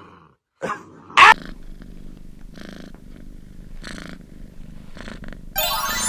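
Domestic cat purring steadily, after a short loud cry about a second in.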